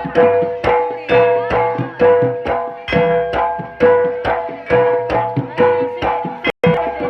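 Live jaranan gamelan music: kendang hand-drum strokes with ringing gong-chime notes, struck in a steady beat about twice a second. The sound cuts out for an instant near the end.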